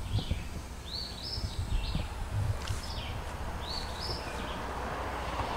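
Small bird chirping outdoors: short arched notes in a few quick groups, over a steady low rumble.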